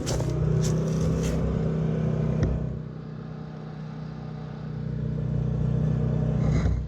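Champion 3400-watt dual fuel inverter generator running steadily with no load, its engine hum even throughout. It dips in level about three seconds in and comes back up near the end, with a few short clicks in the first second and a half.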